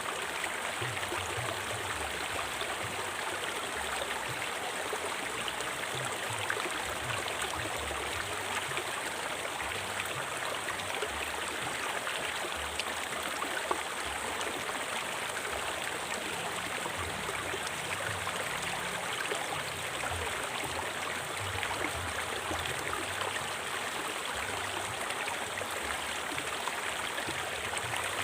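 River water flowing steadily, an even rushing with many small splashes scattered through it.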